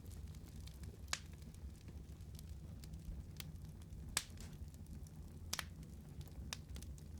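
Wood fire crackling: sparse sharp pops, the loudest about four seconds in, over a steady low rumble of the burning.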